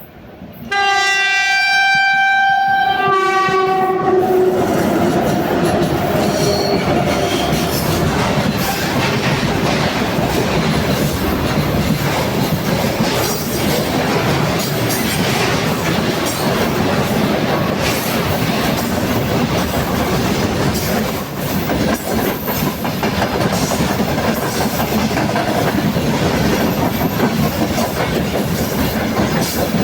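3ES5K "Ermak" electric locomotive sounding its horn for about three seconds as it arrives, the pitch sliding down as it passes. Then the steady rumble and clickety-clack of the freight train's wagons rolling by.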